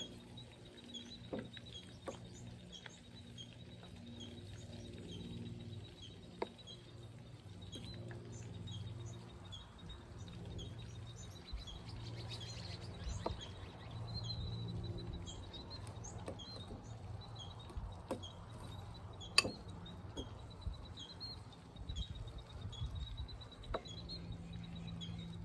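Small birds chirping in quick repeated calls, over a low steady hum, with a few sharp clicks.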